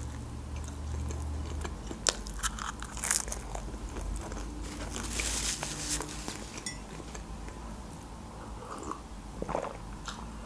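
Close-up mouth sounds of someone biting and chewing homemade pizza, with crisp crunches and clicks scattered through. A sip from a mug comes near the end.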